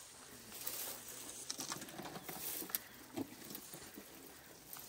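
An elephant stripping bark from a branch and chewing it: irregular crunching and crackling.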